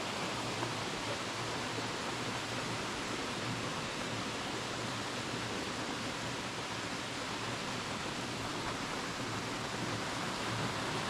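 Crabtree Falls cascading, a steady, even rush of falling water.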